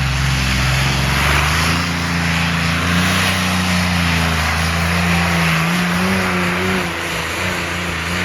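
Pulling tractor's engine running hard at high revs under load, its pitch holding fairly steady with slight drifts, a little quieter from about seven seconds in.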